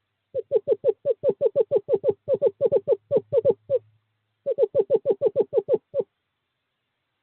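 Male screech owl calling: a rapid, even run of short hoots, about six a second, for some three seconds, then after a brief pause a second run of about a second and a half. It is courtship calling to draw a female to the nest box.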